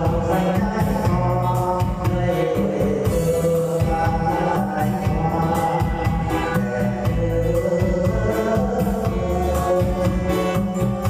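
A voice singing a song with long held notes over instrumental backing music.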